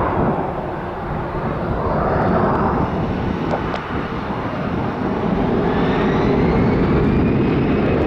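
Airbus A330-200 twin-engine airliner on approach: a steady jet engine rumble that grows a little louder, with a faint high whine rising slowly in pitch in the second half.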